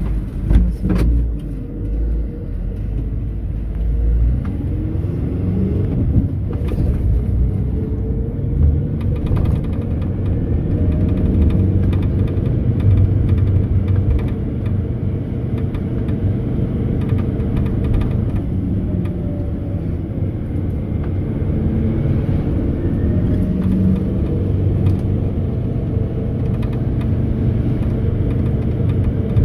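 Mercedes-Benz Sprinter minibus under way, its engine and road noise heard as a steady low rumble from inside the cabin, with a few knocks in the first seven seconds.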